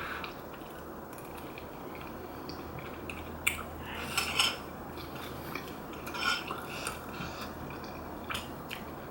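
Eating utensils clinking and scraping against a bowl of rice cake and dumpling soup: a handful of short, sharp clinks, with a cluster about three and a half to four and a half seconds in and another about six seconds in.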